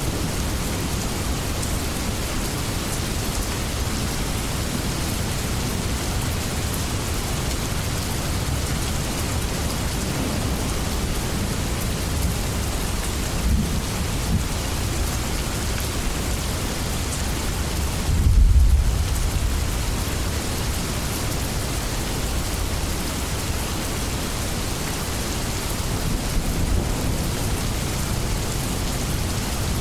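Steady rain falling, with a low rumble of thunder swelling about two-thirds of the way through and smaller rumbles before and after it.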